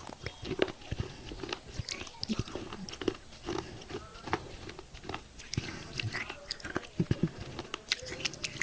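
Thick pieces of broken clay pot being bitten and chewed close to the microphone: a run of irregular sharp crunches and cracks, with chewing between them.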